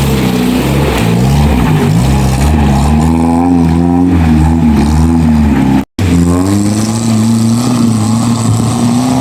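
Off-road 4x4's engine working through the track, its pitch rising and falling as it is revved up and eased off several times, with a brief break about six seconds in.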